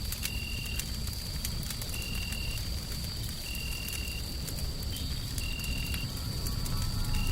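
Wood fire crackling with sharp, irregular pops over a steady low rumble of white noise. A short high chirp repeats about every one and a half seconds, with a thin steady high tone beneath it.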